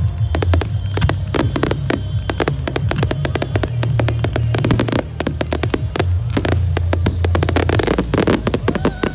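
Fireworks going off: a dense, rapid string of sharp bangs and crackles from ground-fired fountains and aerial bursts, several reports a second with no break.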